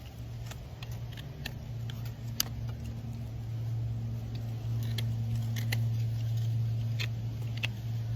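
A farrier's hand tools working a horse's hoof: irregular sharp clicks of cutting and paring, a dozen or so spread unevenly, over a steady low hum.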